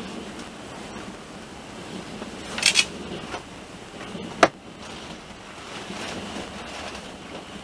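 Train running along the line, heard from inside the carriage: a steady rushing of rolling and wind noise. A short clatter comes about two and a half seconds in, and a single sharp knock, the loudest sound, comes just past the middle.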